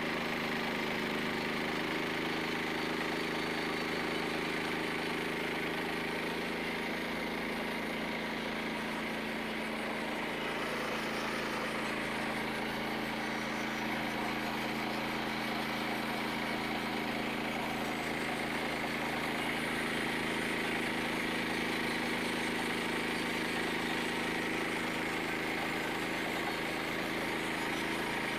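Frontier OS27 bandsaw mill's engine running steadily under load as the band blade is fed slowly through a knotty white pine log.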